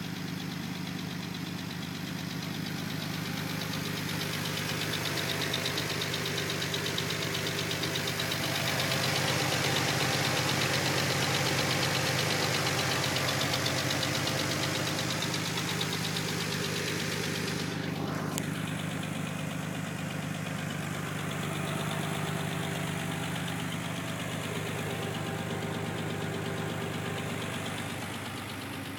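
Nissan 300ZX twin-turbo V6 engine idling steadily.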